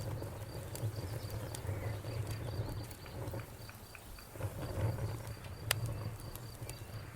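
Wood fire burning with a steady low rumble and scattered crackles of the wood, with one sharp pop about three-quarters of the way through.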